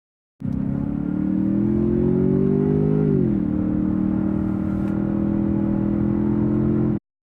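2017 Ford Fusion Sport's 2.7-litre twin-turbo V6, heard inside the cabin: the engine note rises steadily under acceleration, drops a step about three seconds in, then holds steady before cutting off suddenly.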